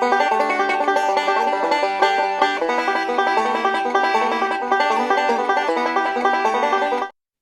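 Banjo music, a quick run of plucked notes in bluegrass style, that cuts off suddenly near the end.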